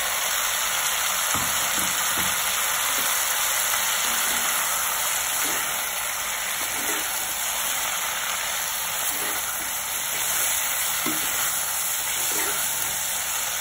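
Canopy beans frying in oil in a kadai with a steady sizzle, stirred and tossed with a perforated metal spatula.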